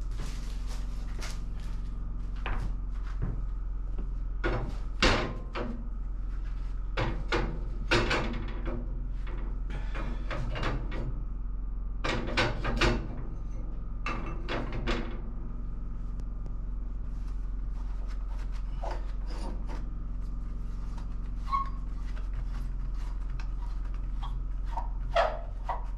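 Repeated knocks, clunks and scrapes of heavy objects being handled and set down, in clusters, over a steady low hum.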